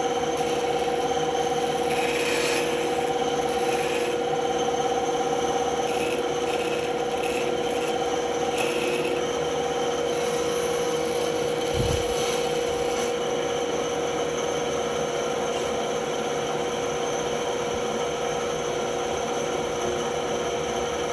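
Band saw running with a steady hum, its blade cutting wood in short stretches. A low thump about twelve seconds in.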